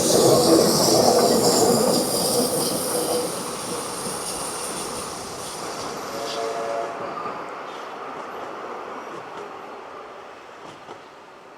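Narrow-gauge train running past and fading away, with wheels squealing on the rails at first and a brief squeal about six seconds in.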